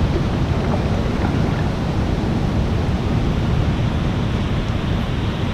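Thunderstorm wind and rain: a steady rushing noise, with wind buffeting the microphone.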